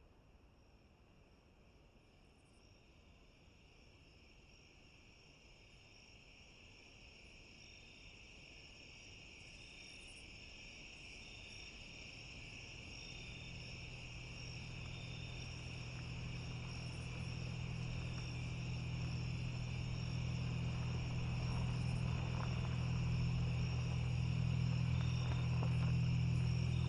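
Crickets chirring in a steady night chorus, fading in slowly from faint. About halfway through, a low steady hum comes in and grows until it is the loudest sound.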